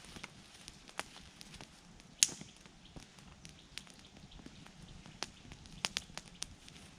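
Wood campfire crackling: irregular sharp pops and snaps over a soft hiss, the loudest pop about two seconds in and a few more close together near the end.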